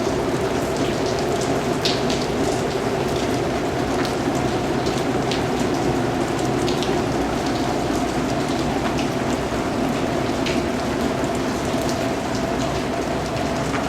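Steady rain falling, an even continuous hiss with many individual drops ticking sharply throughout.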